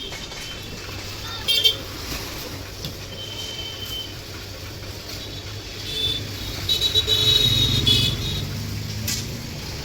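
Road traffic with several short, high horn toots, and a vehicle engine that grows louder about six seconds in and fades again after eight.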